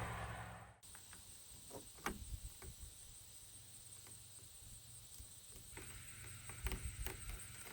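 Quiet background with a few faint, sharp clicks and taps, after a low steady hum cuts off abruptly about a second in.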